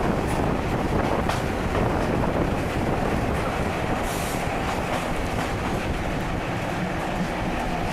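Intercity 125 HST train running on the rails: a steady rumble of wheels and running gear with a few faint clicks and a brief hiss about four seconds in.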